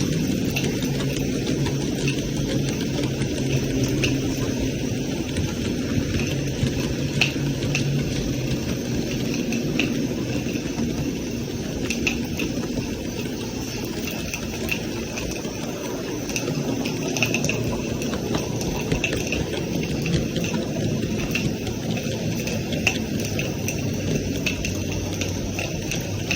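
Live-steam model locomotive running on the track: a steady steam hiss and mechanical running noise, with light clicks recurring throughout.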